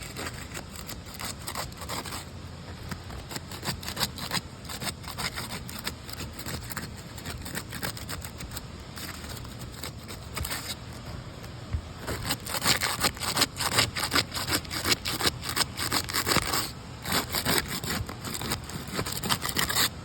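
Dense, irregular scraping and crackling made up of many small clicks, growing louder and thicker about two-thirds of the way through.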